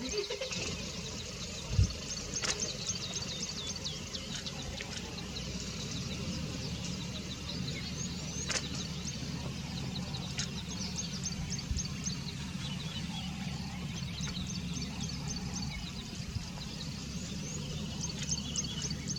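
Many small birds chirping continually over a low steady hum, with a few sharp knocks and a dull thump about two seconds in.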